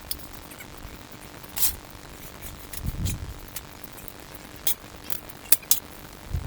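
Scattered sharp clicks and taps, about five of them, the loudest near the end, with two short low thuds, over a faint steady hum.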